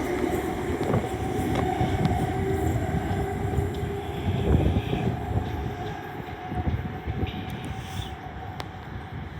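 Electric suburban train, a High Capacity Metro Train, running on the line: a steady rumble of wheels on rail with a held motor whine, growing fainter as it moves away.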